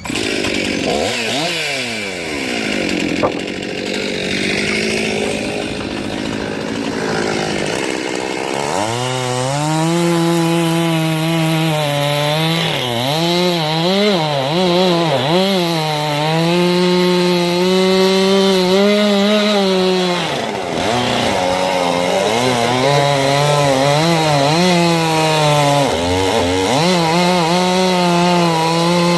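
Circular sawmill blade, belt-driven by a 1926 Keck-Gonnerman steam traction engine, cutting through a log. After a noisy start, a loud wavering howl sets in about nine seconds in, its pitch sagging and recovering again and again as the blade takes the load of the cut.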